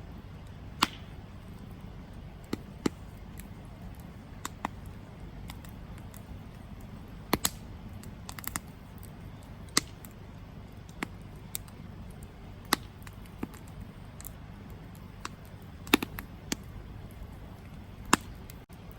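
Campfire wood crackling: sharp pops and snaps at irregular intervals over a steady low rumble, with a few louder pops among them.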